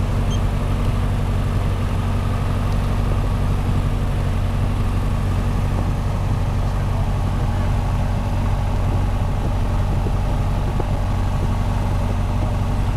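Piper Cherokee's piston engine running at a steady speed, an even low drone with no change in pitch or loudness.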